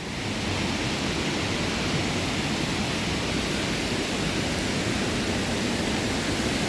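Steady rush of water falling at Mae Klang Waterfall, growing louder within the first half second and then holding even.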